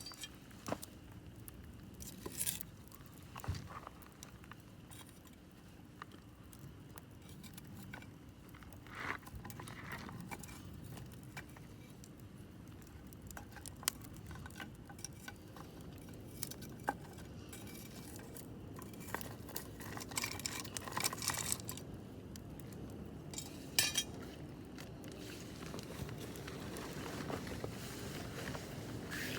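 Wood campfire crackling: scattered sharp pops and snaps, with a few quick clusters of crackles, over a low steady background.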